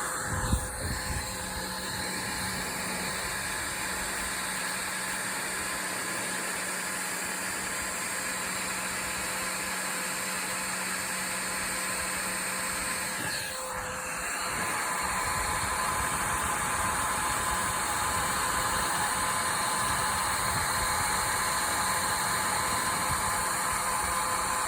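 Electric heat gun blowing steadily while shrinking heat-shrink butt connectors on wiring. Its pitch shifts briefly about halfway through, and it runs a little louder after that. A short knock comes just after the start.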